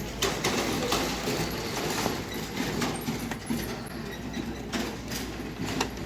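Irregular plastic clicks and knocks of a rechargeable fan's casing being handled and opened, over a steady background noise.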